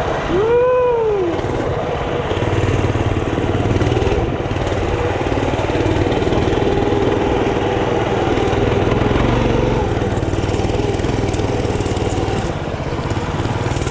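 Mini bike's small engine running steadily, with a brief rise and fall in pitch about a second in.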